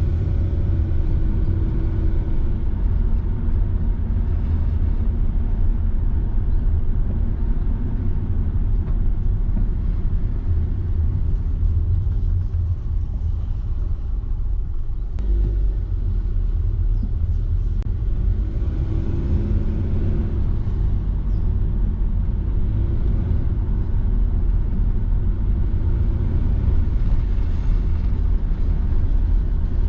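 A car driving along a road: a steady low rumble of road and engine noise, with the engine's pitch rising and falling slightly about two-thirds of the way through.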